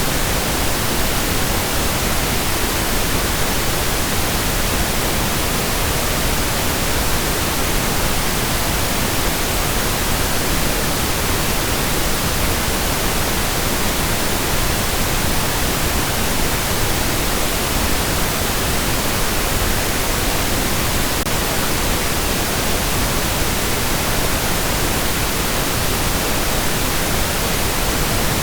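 Steady synthetic pink noise: an even, unchanging hiss spread across the whole range, with no tones, no events and no variation.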